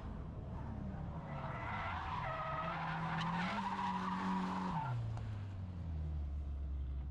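A drifting car's engine revs up while its tyres squeal for a few seconds. The squeal stops and the engine drops back to a low idle near the end.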